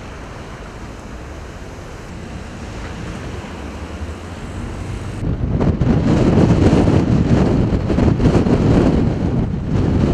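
Strong gusty wind buffeting the microphone, a steady rush that swells into a much louder gust about halfway through.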